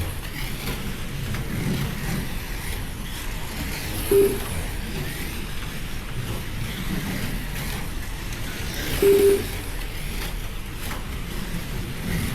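Slot cars running laps on the track, a steady whir of small electric motors and wheels. A short electronic beep sounds about four seconds in and a double beep about nine seconds in.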